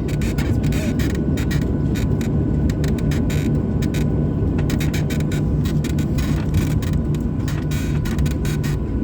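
Cabin noise of a Boeing 737-800: a steady rumble with a constant hum and many quick light rattles and knocks through the cabin.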